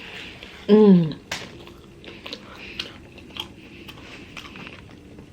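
Close-up chewing and biting of a toasted sub sandwich, with small crackles and clicks. About a second in there is a short, loud hum that falls in pitch, like an "mmm" of enjoyment.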